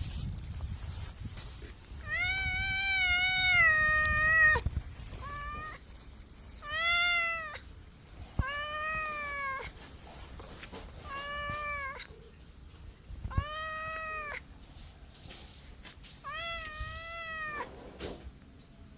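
Domestic cat meowing repeatedly, about seven separate meows, the first one long and drawn out and the others shorter.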